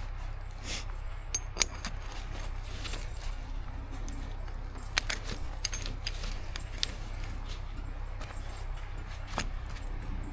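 Footsteps through forest litter, with sharp snaps and clicks now and then, over a steady low rumble.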